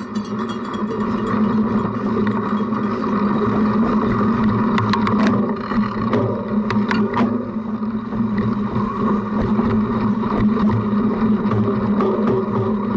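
Cyclocross bike being raced, heard through a camera mounted on the bike: a steady rolling hum from tyres and drivetrain with sharp rattling clicks from the bike jolting over rough ground.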